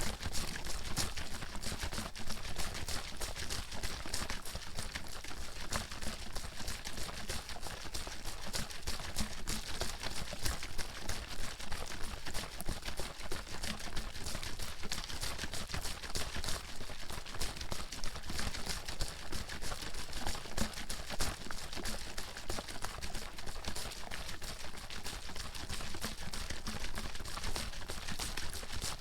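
A water bottle being shaken hard and continuously: water sloshing and splashing inside with rapid, steady knocks as it slams from end to end.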